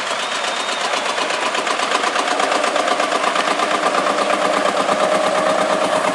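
A vintage tractor engine running with a quick, even firing beat, growing a little louder as it draws nearer.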